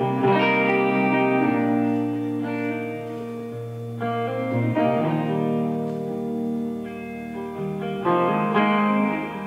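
Guitar music: slow chords struck and left to ring, a new chord about every four seconds, as the instrumental opening of a country song.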